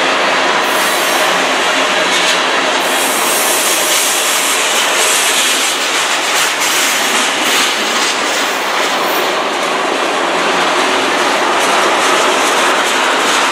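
A freight train's tank cars rolling past close by: a steady, loud rumble of steel wheels on the rails, with scattered clicks.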